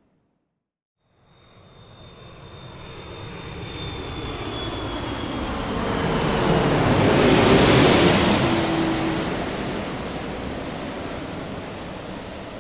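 Airplane flying past: after about a second of silence, engine noise swells to a peak about eight seconds in and fades, with a high whine and a lower tone both dropping slightly in pitch as it passes.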